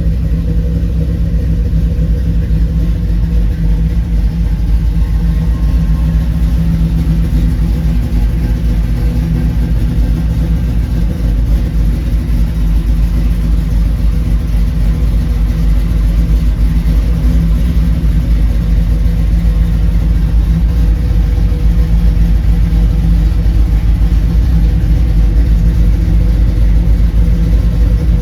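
1968 Chevrolet Camaro's engine idling steadily after a cold start, a deep, even exhaust note that grows slightly louder over the stretch.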